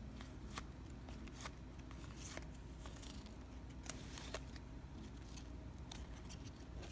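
Faint clicks and small snaps of trading cards being handled and flipped through, scattered irregularly over a low steady hum.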